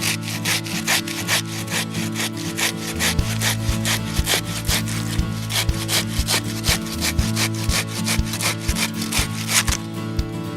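Hand saw cutting wood in quick, even strokes, about four a second, that stop shortly before the end, likely firewood being cut for the campfire. Background music with sustained chords plays underneath.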